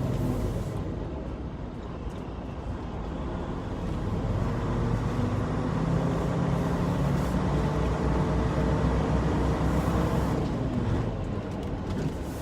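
Truck engine running under way, its pitch and loudness dipping about two seconds in, climbing steadily through the middle and easing off again near the end.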